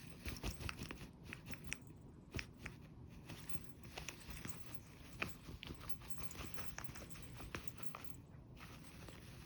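Irregular crisp crunches and small clicks, like a pet chewing something hard such as dry food.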